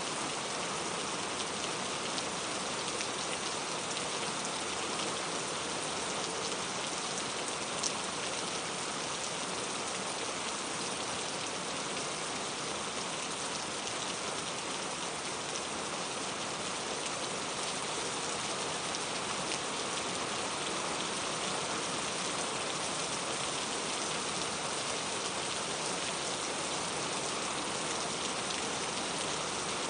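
Steady rain falling on a surface, an even hiss with a scattering of individual drop ticks; one slightly louder drop about eight seconds in.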